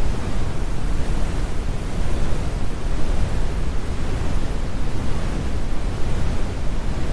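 Steady, computer-generated brown noise: a deep, even rumble with most of its weight in the low end and little hiss, unchanging throughout.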